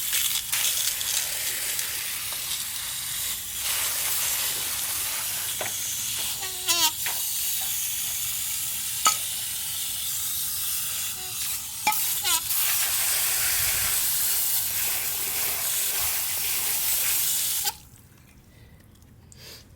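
Water from a hose spraying over a carburetor to rinse off Chem-Dip cleaner, a steady hiss of spray that cuts off suddenly near the end.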